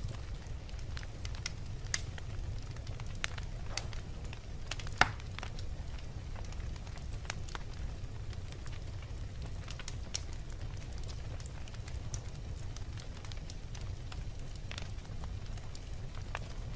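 Wood fire burning in a fireplace, crackling with irregular sharp pops over a steady low rumble; one loud pop about five seconds in.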